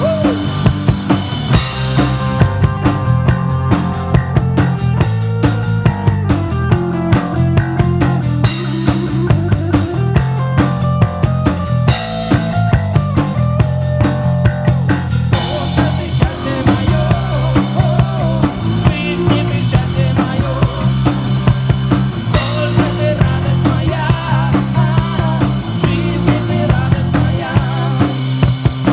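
Live rock band playing an instrumental passage with no singing: drum kit keeping a steady beat under bass, with a wandering melodic lead line over the top.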